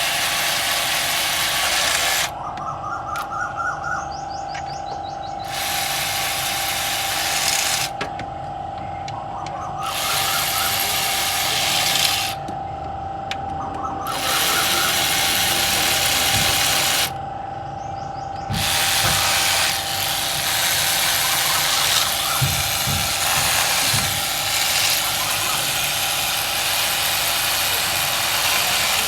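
A workshop power tool running in repeated bursts of two to three seconds each, with a steady high whine underneath throughout.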